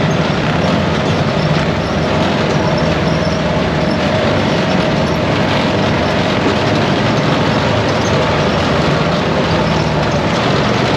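ATV engine running steadily at a constant pitch, under a constant rushing noise.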